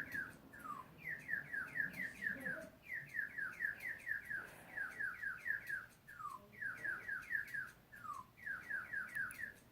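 Electronic bird chirping that has just been switched on: quick runs of four or five short falling chirps, each run followed by one lower falling chirp, repeating about every second and a half.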